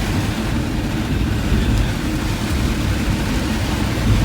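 Steady rumble of a vehicle driving, with engine and road noise, heard from inside the vehicle.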